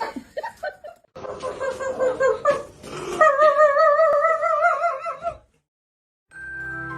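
Dog howling: wavering calls that rise into one long, strongly wavering howl, which cuts off about five and a half seconds in. Soft music starts near the end.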